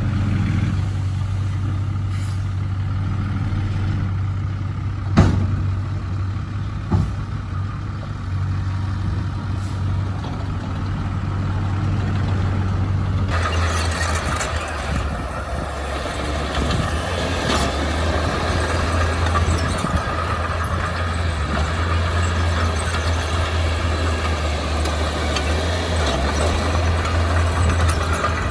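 Heavy-equipment diesel engine running steadily, with two sharp knocks about five and seven seconds in. About halfway through, the sound changes abruptly to a louder, rougher engine noise.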